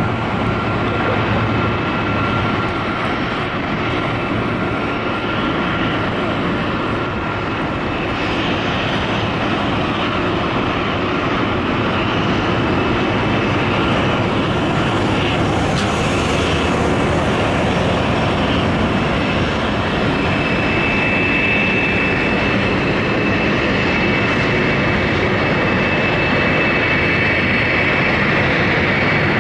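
Four Rolls-Royce RB211 turbofans of a Boeing 747-400 running loud and steady. A thin engine whine fades out early on, and a higher whine comes in about two-thirds of the way through.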